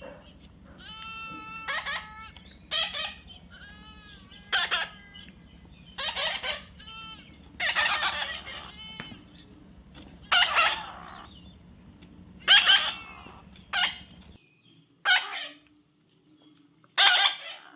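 Baby parrot calling repeatedly: about a dozen short calls, some clear and pitched, others harsh screeches, with brief gaps between them.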